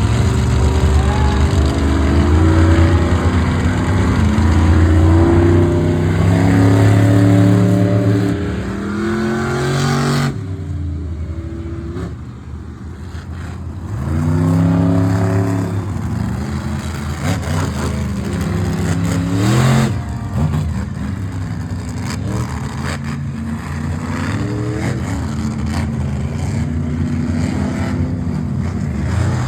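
Monster truck engines revving hard, again and again, each rev climbing and falling away. There is a lull about ten seconds in before the revving picks up again.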